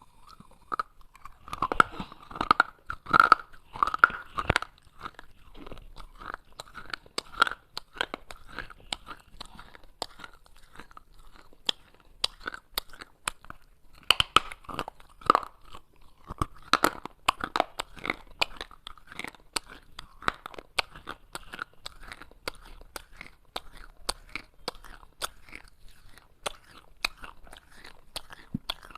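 Baked clay pot pieces crunched and chewed close to the microphone: steady crackling with louder crunching bites in the first few seconds and again about halfway through.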